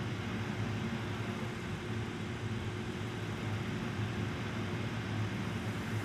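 Steady low mechanical hum with a constant drone and a noisy hiss over it, like machinery running on a factory floor.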